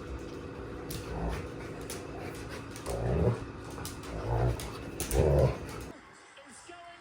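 A dog growling in short rough bursts, four or five times, with low thumps, as if egged on in a play fight; it cuts off suddenly near the end.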